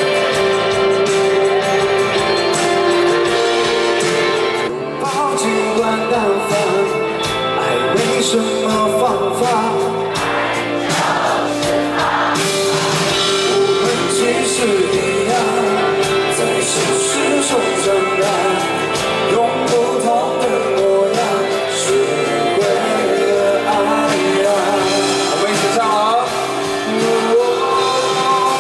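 Live rock band playing a song with singing over it.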